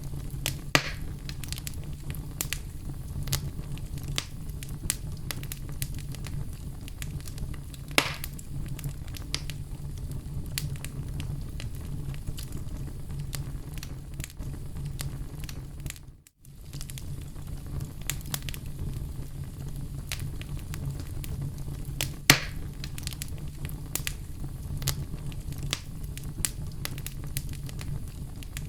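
Oak logs burning in a fireplace, crackling with a steady stream of small snaps and a few louder pops. The sound cuts out for a moment about halfway through.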